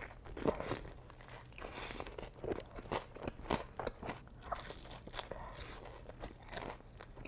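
Close-miked crunching bites and chewing of crispy Wingstop fried food, a quick irregular run of crackly crunches.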